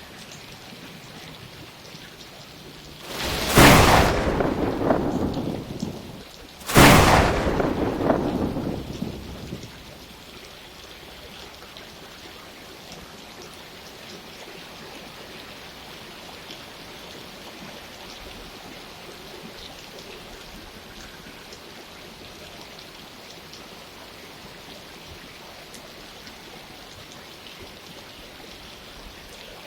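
Steady rain falling, with two loud thunderclaps a few seconds in, about three seconds apart, each cracking suddenly and rumbling away over two or three seconds.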